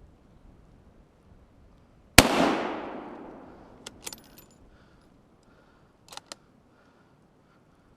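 A single loud gunshot from a deer-hunting gun about two seconds in, its report echoing away over a second or more. A few sharp metallic clicks follow about two and four seconds after the shot.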